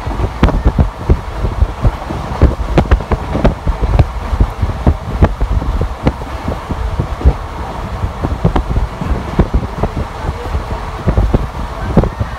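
Passenger train running at speed, heard from an open carriage window: a steady low rumble of wheels on rail with irregular knocks and clatter, and wind buffeting the microphone.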